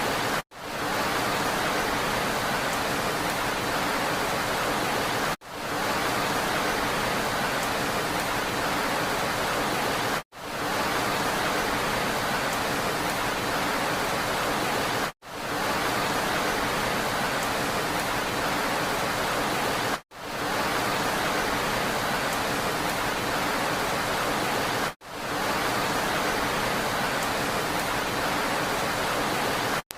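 Steady rain, an even hiss spread across high and low pitches. About every five seconds it cuts out abruptly for an instant and fades back in, a short rain recording looped with a gap at each seam.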